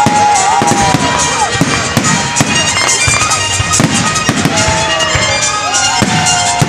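Fireworks display: a dense run of shell bursts and crackling, with whistling fireworks gliding up and down in pitch.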